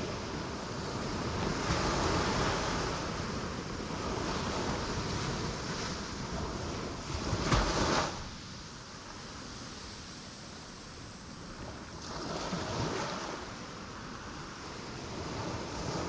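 Ocean waves breaking on rocks, each swell rising and washing away. The loudest is a sharp crash a little past halfway, with quieter surges before it and about two-thirds of the way through.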